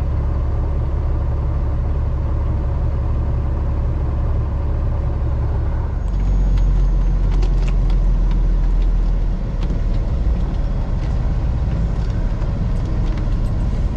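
Semi truck's diesel engine running steadily; about six seconds in its low drone drops in pitch and grows a little louder, with a few light clicks after.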